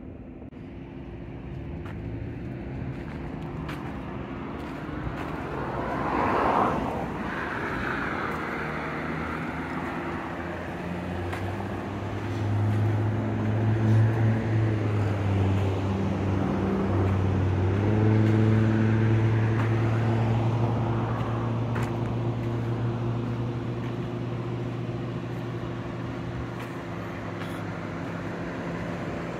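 Road traffic: a vehicle passes about six seconds in, and a heavy engine drones low and steady, louder from about twelve seconds in.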